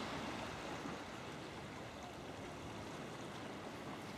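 Steady sea water lapping and sloshing around a sea kayak's hull.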